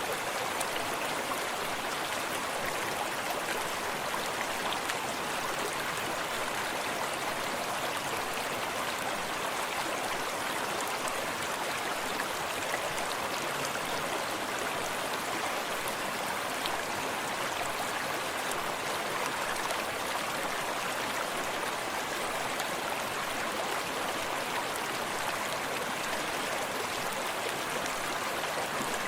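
Forest brook flowing steadily: an even, continuous rush of running water.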